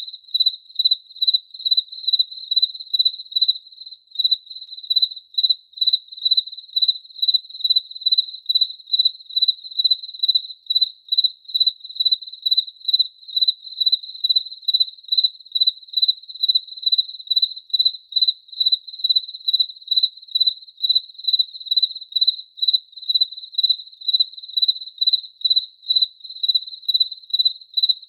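Cricket chirping steadily: a single high-pitched chirp repeated evenly, about two a second.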